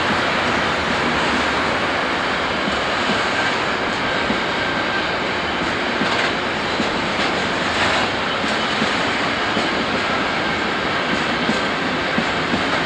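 Train rolling past steadily, its wheels running on the rails, with a few knocks from the wheels along the way.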